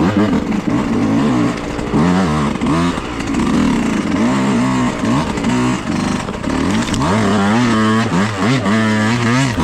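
Dirt bike engine being ridden, revving up and dropping back again and again as the throttle is worked, with a steadier held rev about seven seconds in before falling away.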